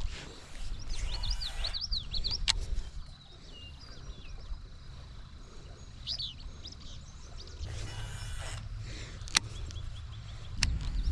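Songbirds chirping in short bunches of quick high notes, over a low rumble, with a few sharp clicks.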